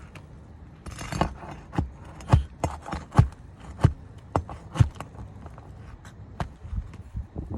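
A run of sharp knocks and scuffs on an asphalt three-tab shingle roof, about two a second for several seconds, with a short scraping hiss at the start and a few softer knocks near the end.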